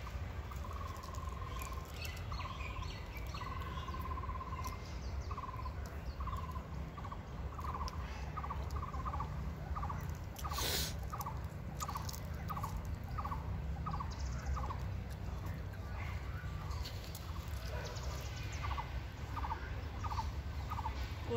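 A bird calling over and over in the background, a steady series of short, even notes at about two a second. The first few notes are longer and held, and the series pauses briefly about two-thirds of the way through. A low steady rumble runs underneath, and there is one sharp click about halfway.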